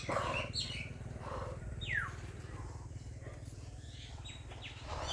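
Birds chirping outdoors, with a few short calls that sweep downward in pitch, over a steady low rumble.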